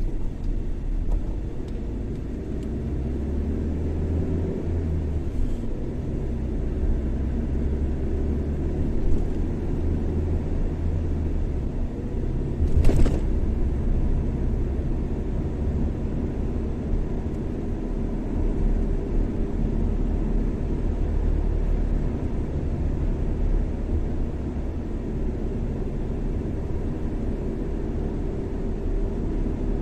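A car driving along a highway, with steady low road and engine rumble and one brief knock a little before halfway.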